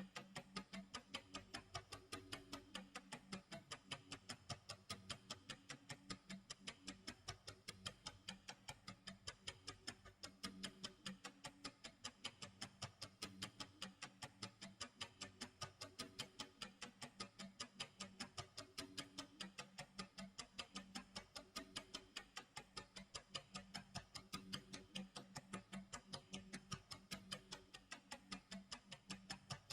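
Clock tick-tock sound effect: an even run of quiet ticks, several a second, with no break.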